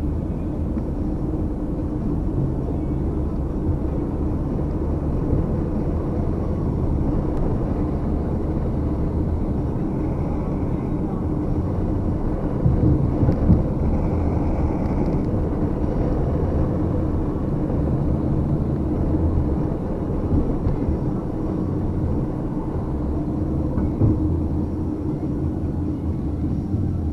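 Muffled, steady low rumble from a camera left running inside a bag, with a few brief knocks.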